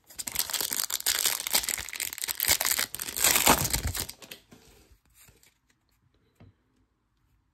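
Plastic wrapper of a 2023 Topps Series 1 baseball card pack being torn open and crinkled, dense crackling that dies away about four seconds in.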